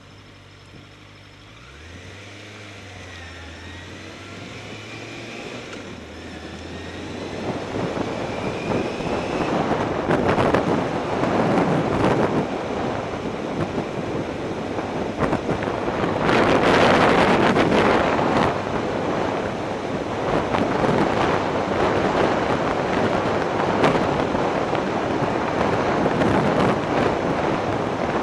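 Motorcycle engine running at low speed, then wind rushing over the helmet camera's microphone, building from about seven seconds in as the bike speeds up. The wind is loudest around the middle and covers the engine.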